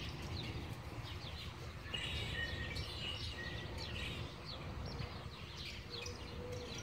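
Small birds chirping over and over, short quick down-sweeping calls, over a low steady background rumble.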